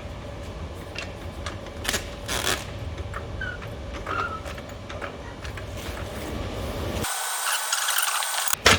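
Tools knocking and clinking against metal exhaust pipe during fabrication, over a steady low hum. About seven seconds in the hum drops out and a hiss runs for a second or so, and sharp knocks begin near the end.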